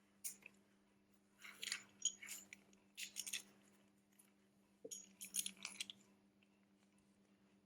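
Small clicks and crackles of hands handling a phone and small repair parts or tools, in four short clusters, over a faint steady hum.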